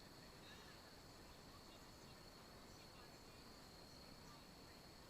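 Faint, steady high-pitched insect trill over low background noise, close to silence.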